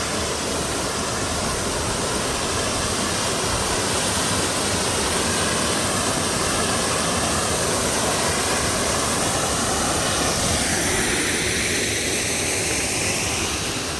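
Waterfall pouring steadily, a loud, even rush of water; its tone shifts about ten seconds in.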